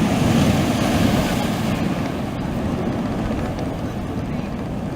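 Sea surf washing onto the shore, a steady low rumble that swells in the first second or so and then slowly eases off.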